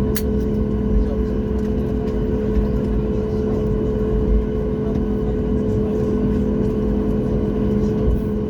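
Steady cabin noise inside a Boeing 737, the hum of its engines running evenly, with two held tones over the noise.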